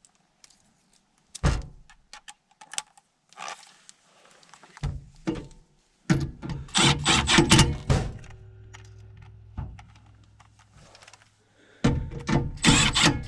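Metal tools and gas pipe fittings clinking, knocking and rattling as they are handled. The handling is loudest about six to eight seconds in and again near the end, with a low steady hum in between.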